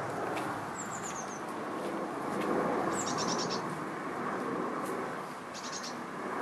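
Small songbird chirping high, thin calls in three short bursts, the first a falling run of notes and the second a quick rattle of repeated chirps, over a steady outdoor background hiss.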